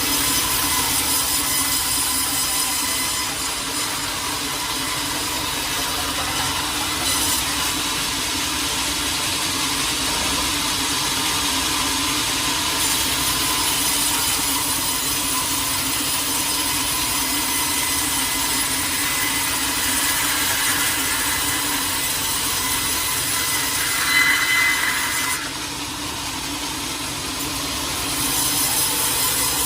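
Sawmill saw running and cutting through a teak log, a steady machine whine over sawing noise. Near the end it briefly gets louder with a higher whine, then drops for a few seconds before picking up again.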